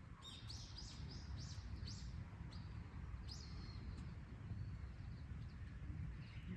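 A bird calling: a run of about five short falling chirps in the first two and a half seconds and another about three seconds in, then fainter calls, over a steady low rumble.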